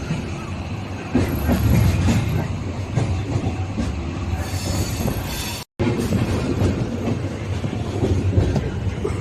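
Passenger train running on the rails, with steady rumbling and clattering wheels and a brief high squeal about a second in. The sound cuts out completely for an instant just past halfway, then carries on.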